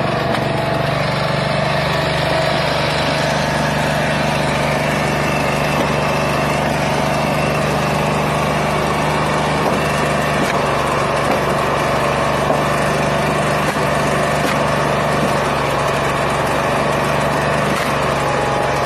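A small engine running steadily at an even speed, with a few light knocks over it.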